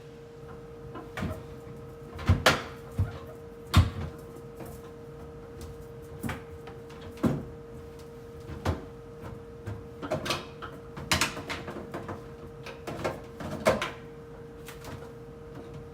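Irregular knocks and clacks of containers and items being handled and set down inside a refrigerator, over a steady hum.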